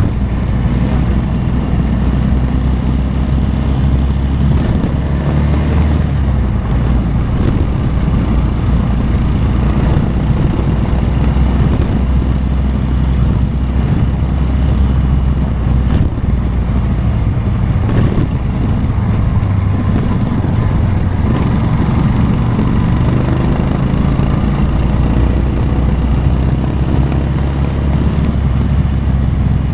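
Motorcycle engine running steadily while riding, with a brief click about eighteen seconds in.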